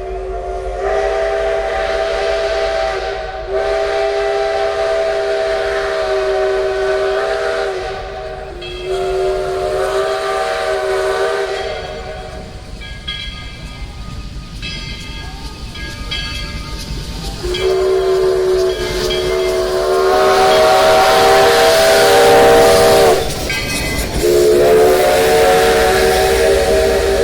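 Steam chime whistle of the Mallet 204 2-6-6-2 steam locomotive. It sounds a series of long multi-note blasts, one chord held for several seconds each time, over a rush of steam, with a pause of a few seconds in the middle.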